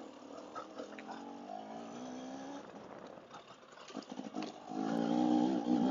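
Dirt bike engine running on the trail. Its note rises a little and drops away about two and a half seconds in, stays quiet for a couple of seconds, then comes back much louder near the end as the throttle opens.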